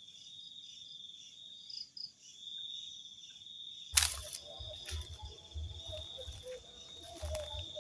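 Crickets trilling steadily at night, one continuous high, finely pulsing chirr. About four seconds in there is a sharp click, followed by irregular low thuds.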